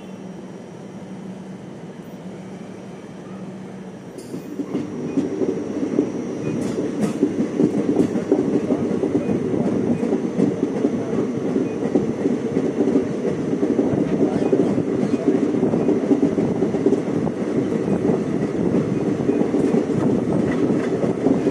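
Train running on the rails, wheels clattering over the track with scattered clicks. It turns much louder about four seconds in.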